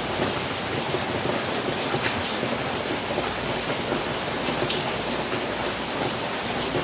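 Steady rain falling on a house roof: an even, dense hiss with an occasional sharper drop tap.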